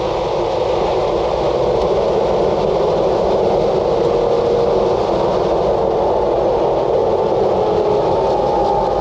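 Ore train rolling by: a loud, steady rush of wheels on rail, with faint thin tones coming and going over the second half.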